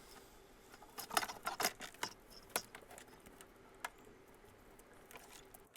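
Faint scattered clicks and small scratches of plastic and a hand tool as a furnace control board is worked loose from its plastic holders, busiest between about one and two and a half seconds in.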